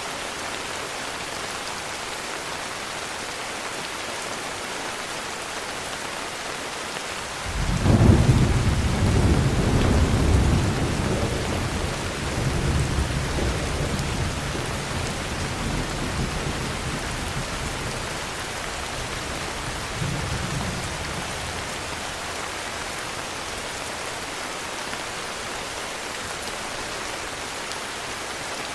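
Steady heavy rain, with a roll of thunder breaking in suddenly about a quarter of the way through, rumbling low for several seconds and slowly dying away under the rain.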